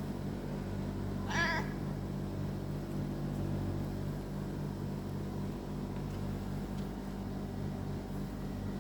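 A stray cat gives one short meow with a wavering pitch about a second and a half in, over a steady low mechanical hum.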